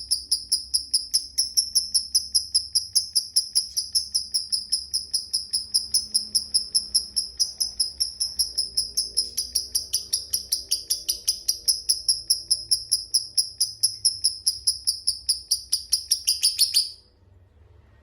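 Lovebird giving a long ngekek, the sustained chattering trill prized by lovebird keepers: a rapid, even run of high, sharp notes at about five a second, held without a break until it stops abruptly near the end.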